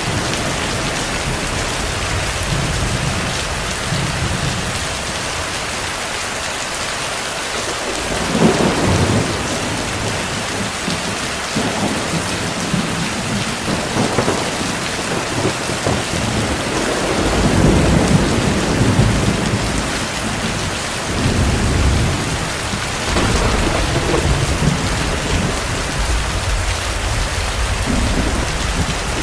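Heavy rain falling steadily, with distant thunder rolling through it several times: a first rumble about eight seconds in, and the longest rumble around the middle.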